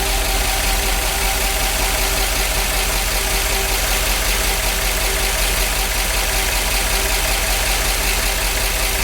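Big-block V8 engine of a C50 truck idling steadily after sitting for decades, with a valve train that is a little noisy. The owner suspects the ignition timing is a little off.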